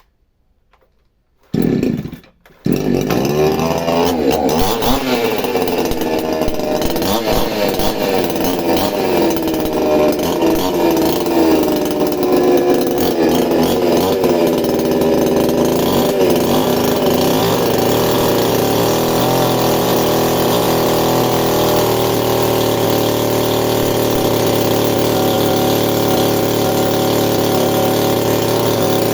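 Chainsaw engine starting: a short burst that dies, then it catches about two and a half seconds in and runs loudly, its pitch rising and falling as it is revved, settling to a steadier note in the second half.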